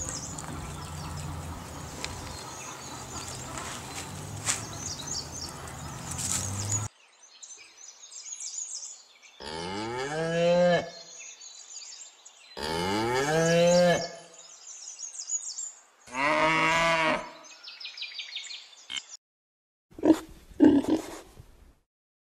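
Cows mooing: three loud, drawn-out moos about a second long each, rising in pitch, a few seconds apart. They follow a lower, steadier stretch of sound under background hiss. Near the end come a few short, low grunts.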